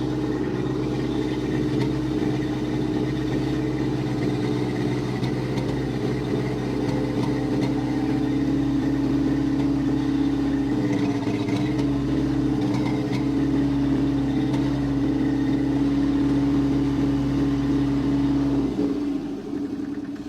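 Old crawler tractor's engine running steadily, freshly revived after sitting, with a brief dip around the middle, then quieting near the end.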